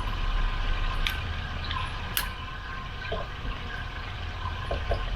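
Water running from a Zodi Hot Tap portable water heater's hose, over a steady low rumble. There are two sharp clicks about one and two seconds in.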